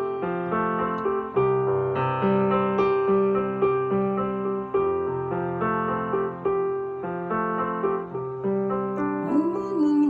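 Piano playing a slow, gentle accompaniment, with held chords that change about once a second.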